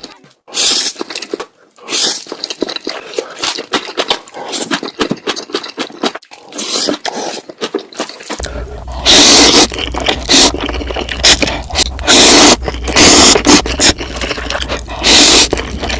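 Close-miked crinkling, clicking and scraping of food and packaging being handled. About eight seconds in, a steady low hum joins and louder crinkling bursts come in.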